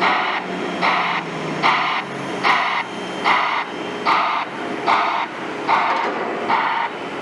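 Broadband white-noise reversing alarm of a construction machine, pulsing as a hissy beep about every 0.8 seconds, over a low running engine.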